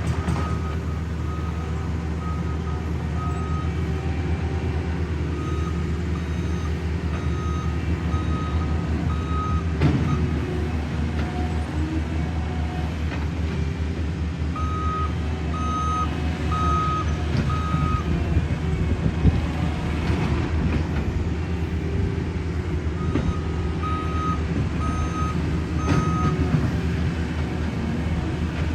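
Diesel engine of heavy road-paving equipment running steadily, with a reversing alarm beeping in runs of four or five beeps, several times over. An occasional knock.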